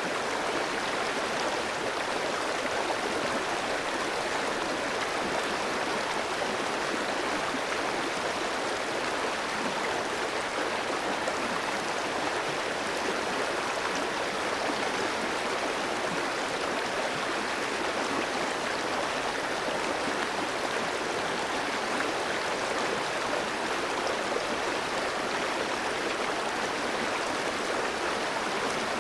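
Clear mountain stream flowing over rocks, a steady rushing and burbling of water.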